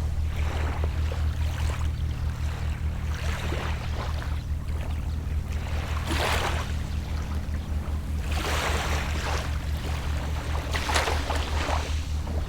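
Small, gentle waves washing in on the shore in irregular soft surges every couple of seconds, over a steady low hum from a distant boat engine.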